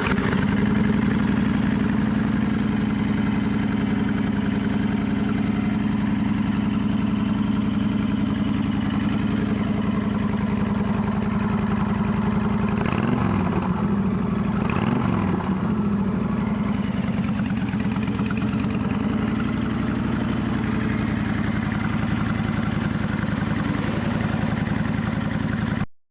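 A 2010 Honda Fury's V-twin engine idling steadily, with two brief throttle blips about halfway through. Each blip rises and falls back to idle.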